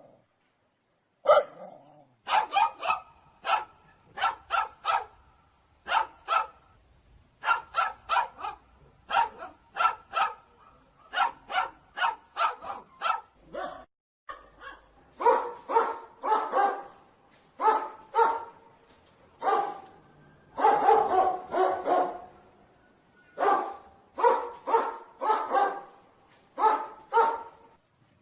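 Dog barking over and over in quick runs of two to four barks, with short pauses between the runs.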